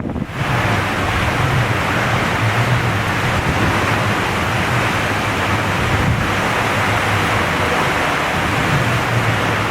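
Strong typhoon wind buffeting the microphone: a loud, steady rushing roar.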